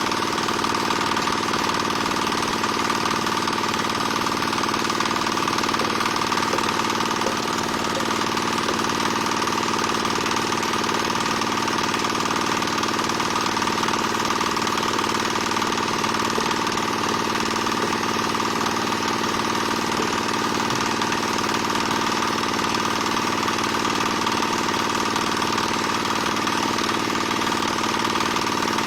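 Small diesel engine driving a single-screw palm oil press, running steadily at a constant speed with a hard, rattling mechanical clatter.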